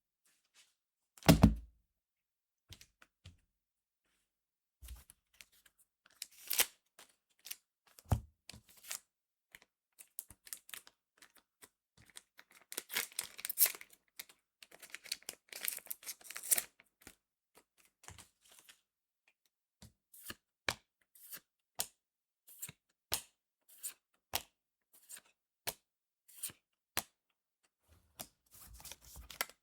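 Trading card booster pack being torn and crinkled open, with a loud thump about a second in. Near the end the cards are handled one at a time, a steady run of single crisp clicks.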